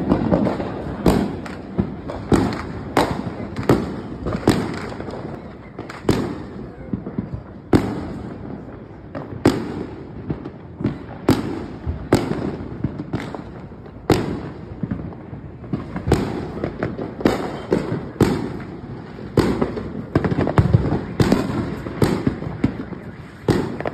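Fireworks going off: a long string of sharp bangs at uneven intervals, roughly one or two a second, each trailing off in an echoing rumble.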